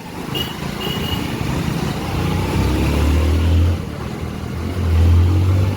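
Road traffic noise heard from a moving motorcycle, with two short high beeps in the first second and two louder low engine drones, each about a second long, in the middle and near the end.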